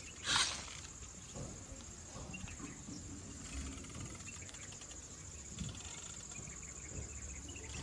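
Radio-controlled toy tractor: a brief scraping rattle about half a second in, then a steady high-pitched electric whine with small scattered clicks.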